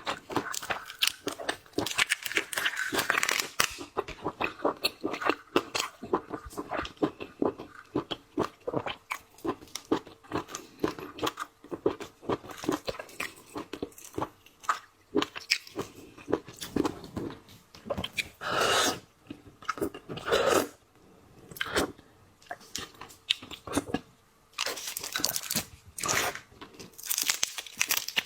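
Close-miked eating of shell-on seafood: dense, crisp crunching and cracking of shells with chewing. Near two-thirds of the way in come two longer, noisier sounds.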